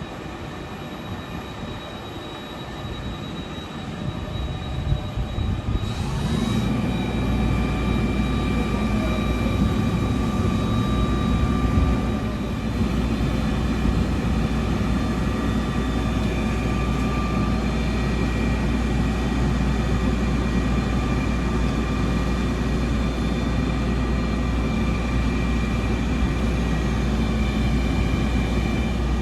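Fire truck engine running; about six seconds in it speeds up with a rising whine, then holds a steady, louder drone with a constant whine over a low rumble.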